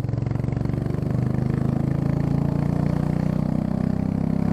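Royal Enfield Classic 350's single-cylinder engine running at low revs, its exhaust note rising a little and then holding, louder and deeper than stock because the end silencer has been removed while the catalysts stay in place.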